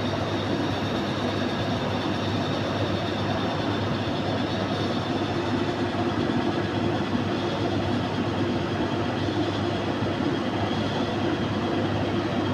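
Heavy truck engines running steadily, a continuous low drone with a steady hum.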